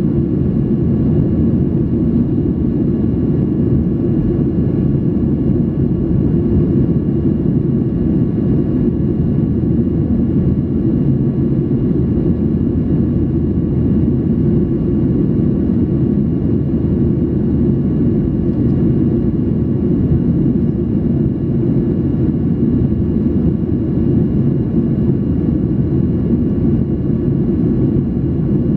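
Boeing 737-800 cabin noise in flight: the steady, low rush of airflow and the CFM56-7B turbofan engines heard from a window seat, even and unbroken, with a few faint steady whining tones above it.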